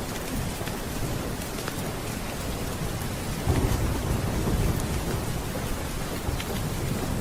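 Steady rain, with a low rumble of thunder rolling in about halfway through.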